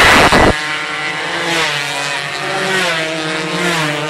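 Several racing motorcycle engines running together, their pitches slowly rising and falling as they rev and pass. A loud rush of noise comes in the first half second.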